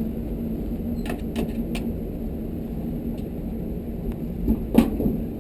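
A few sharp clicks and light metal taps from a screwdriver working on the water heater's sheet-metal housing, the loudest near the end, over a steady low hum.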